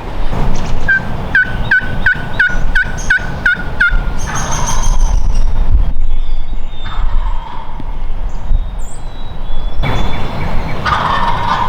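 Turkey calling: a run of about ten evenly spaced yelps over some three seconds, followed by further fainter calls.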